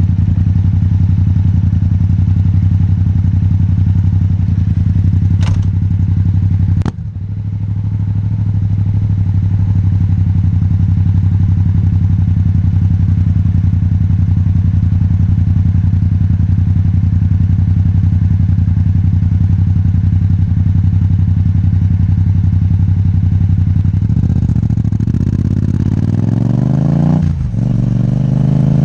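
Yamaha MT-07's parallel-twin engine through an Akrapovič titanium exhaust, ridden at steady revs. About five and a half and seven seconds in come two sharp clicks and a brief dip in the sound. Near the end the revs fall and then climb again as it accelerates.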